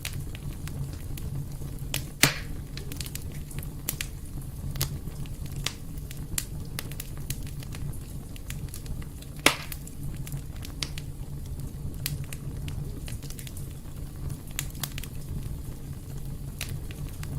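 Fireplace fire burning steadily with a low rumble and continual crackling, with two loud pops, one about two seconds in and one about nine seconds in.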